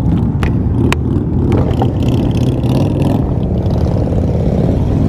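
Several motorcycle engines running together in a steady low drone, with two sharp clicks about half a second and one second in.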